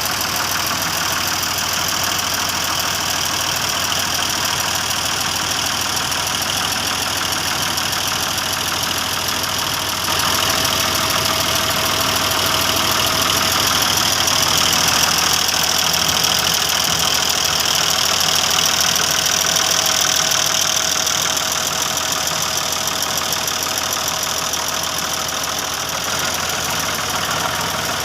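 Tractor engine running steadily, getting a little louder about ten seconds in.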